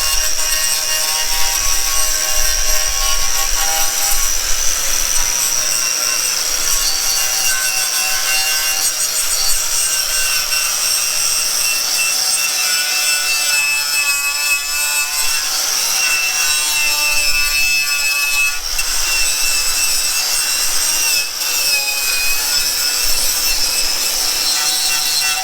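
A power tool with an abrasive attachment running steadily and rubbing against an engine part to strip off its orange paint: a constant motor whine over a scraping, rasping noise.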